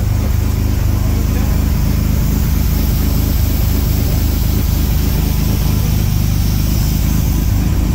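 A 1938 SS Jaguar 3½ litre's straight-six engine running at a steady speed, with an even low exhaust note.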